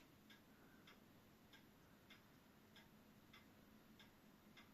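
Near silence with faint regular ticking, about three ticks every two seconds, over a faint steady low hum.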